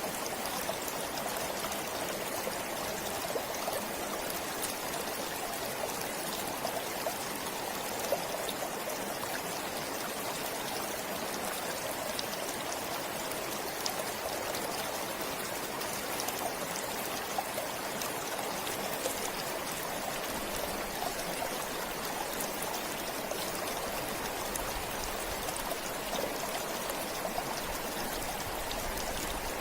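Forest stream flowing steadily, a constant rush of water with many small trickles and drips.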